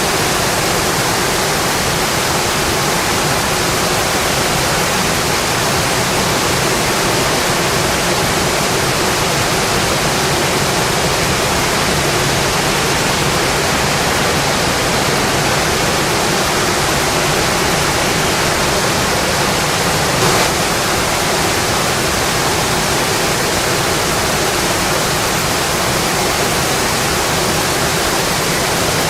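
Steady, even rainfall hiss with no letup, and one faint tap about two-thirds of the way through.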